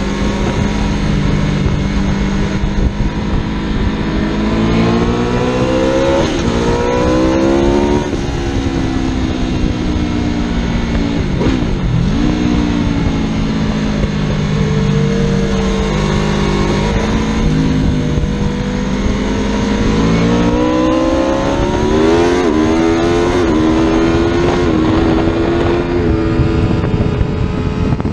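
Superbike engine accelerating hard through the gears, its pitch climbing and dropping back at each upshift, then easing off and climbing again near the end, over steady rushing noise.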